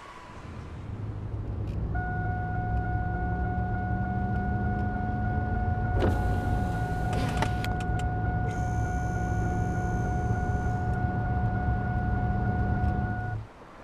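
Car driving sound effect: a steady engine and road drone whose engine note rises slowly, then drops about six seconds in, with a steady tone held above it and a click as the note drops. It all cuts off suddenly near the end.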